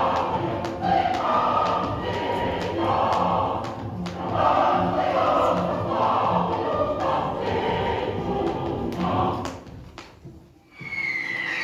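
A choir singing, phrase by phrase, with occasional thumps. The song fades out about ten seconds in.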